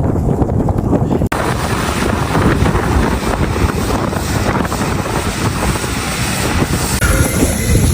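Blizzard wind buffeting the microphone: dense, loud noise strongest in the low end, broken by a brief dropout about a second in.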